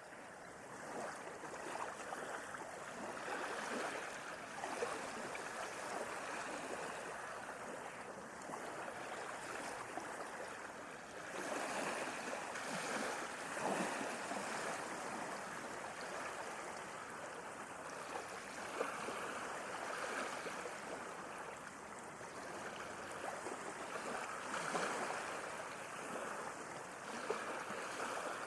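Sea waves washing and lapping: a continuous rush of water with fine splashy crackle, swelling every several seconds as waves come in.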